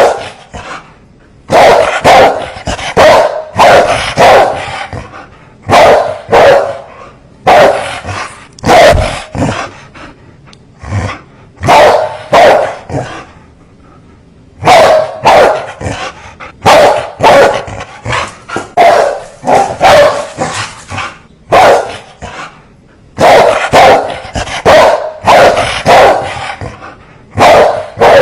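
Dogs barking fiercely in loud runs of a few sharp barks, with short pauses between the runs.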